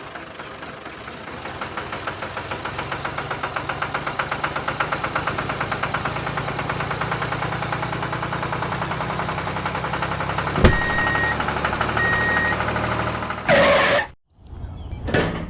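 An engine running with an even, rapid pulse, the beat quickening over the first few seconds and then holding steady. About ten seconds in there is a sharp click, followed by two short high beeps.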